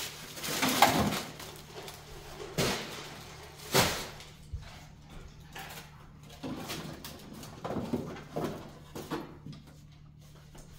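Frozen food packages and containers being handled and taken out of a freezer: a few sharp knocks and clunks, the loudest about a quarter and a third of the way in, between stretches of rustling.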